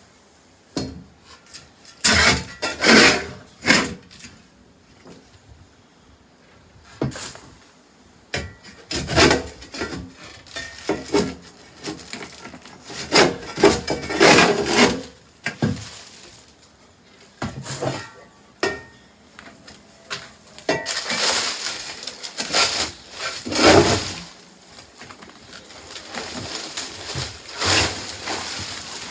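Irregular knocking and scraping of wood, in uneven bursts with pauses between, including a longer rasping scrape near the end.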